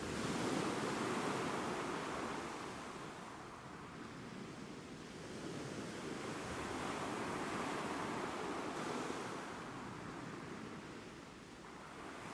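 Ocean waves, a steady wash of surf that swells sharply right at the start, eases off, then swells again about seven seconds in before dying back near the end.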